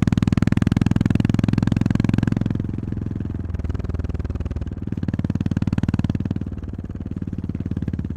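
Honda GB350S single-cylinder engine thumping steadily under throttle, then easing off about two and a half seconds in. It pulls again for a while and eases off once more, then opens up again near the end.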